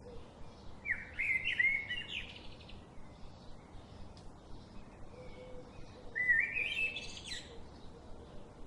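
A bird calling in two short phrases of quick chirping notes, one about a second in and another about five seconds later, over faint outdoor background noise.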